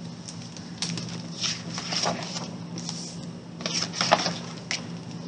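Picture book being handled and its pages turned: a string of soft papery rustles and small ticks, over a faint steady low hum.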